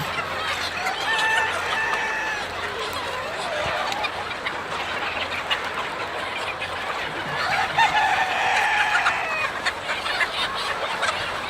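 A flock of many chickens clucking and calling over one another in a steady din, with one longer drawn-out call about two-thirds of the way through.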